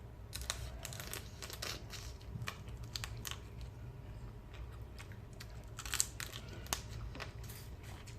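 A person eating close to the microphone: chewing with many irregular crunches and crackles of crisp food, the sharpest about six seconds in and again less than a second later.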